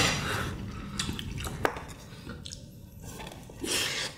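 People chewing food, with a few sharp light clicks.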